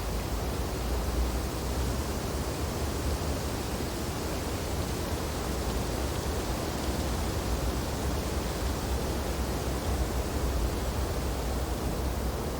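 Steady wind blowing through tree branches in a snowstorm: an even rushing with a deep low rumble and gentle swells, no gusts or breaks.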